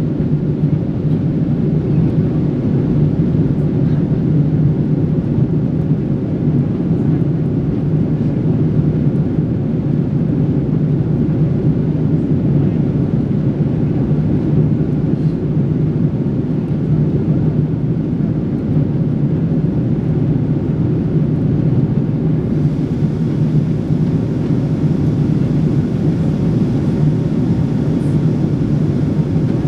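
Steady cabin noise of a Boeing 777-300 airliner in flight: a constant low rumble of engines and airflow.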